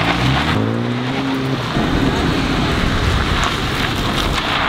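Mini Cooper S's 2.0-litre turbocharged four-cylinder petrol engine accelerating in sport mode, its note rising over about the first second and a half. It then gives way to a steady rush of tyre and wind noise as the car drives on.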